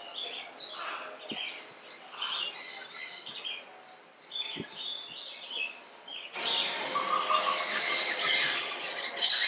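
Many small birds chirping and twittering, with scattered short calls that become louder and denser from about six seconds in.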